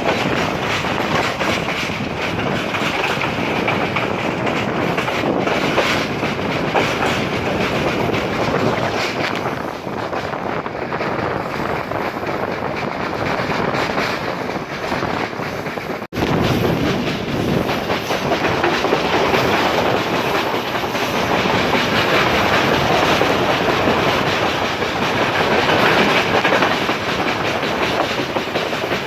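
Passenger train running at speed, its wheels clattering over the rails in a steady, dense rumble, with a momentary break a little past halfway through.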